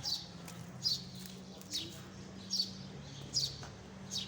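A bird chirping over and over, one short falling chirp a little more often than once a second, over a steady low hum.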